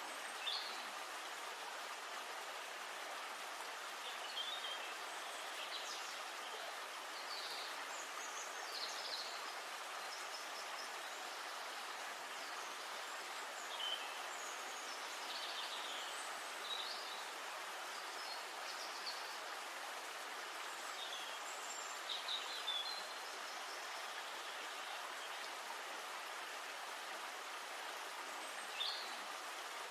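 Steady rush of flowing river water, with birds calling in short high chirps every few seconds.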